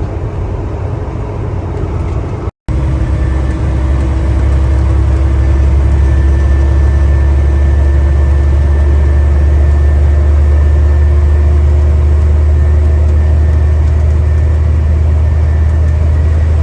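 Semi truck's diesel engine heard from inside the cab: running while driving for the first couple of seconds, then, after a sudden break, idling with a strong steady low hum and a faint tone above it that rises slowly.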